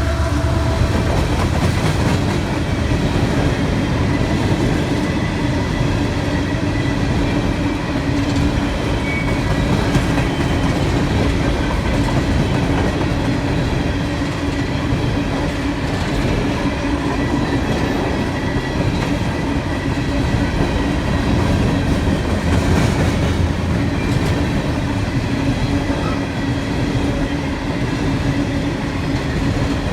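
CSX freight train rolling past, its wheels clicking over the rail joints under a steady rumble and hum.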